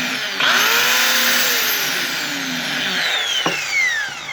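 Craftsman 6-amp grinder running with a harsh whine, its pitch sliding steadily down over the last three seconds as the motor winds down. It still runs after its case has been put back on, though its owner had taken it for finished.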